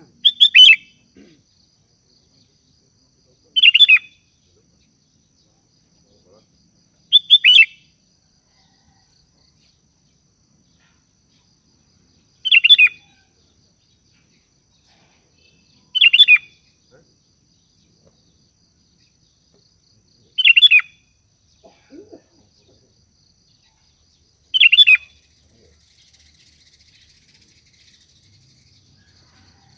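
Sooty-headed bulbul (kutilang) giving short, bright calls to others of its kind, seven of them spaced a few seconds apart.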